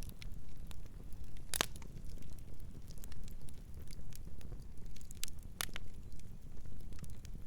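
Campfire crackling: irregular sharp pops and snaps over a low steady rumble, the loudest pop about a second and a half in and another strong one near the end of the sixth second.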